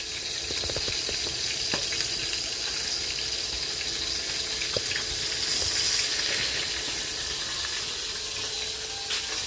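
Fish frying in hot oil: a steady sizzle with a few small pops.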